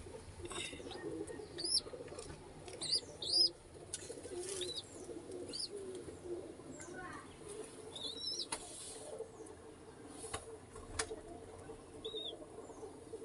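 Domestic pigeons cooing steadily, with short high chirps from other birds heard now and then.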